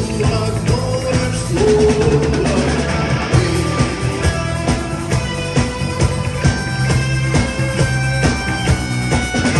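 Rock music played by a band: guitar over bass and a drum kit keeping a steady beat.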